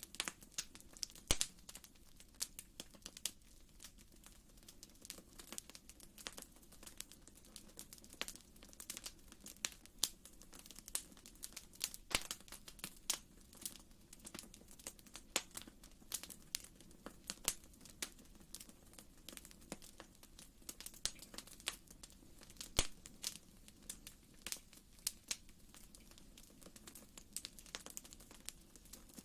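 Wood fire in a fireplace crackling, with many irregular small snaps and pops over a soft steady low background.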